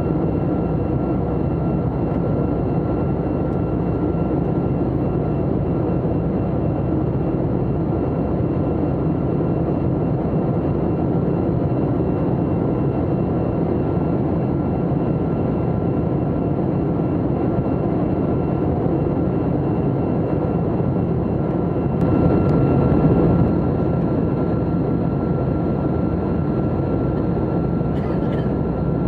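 Steady jet engine and airflow noise heard inside the cabin of an Airbus A321-200 airliner: a constant rush with a thin high whine over it, swelling slightly about twenty-two seconds in.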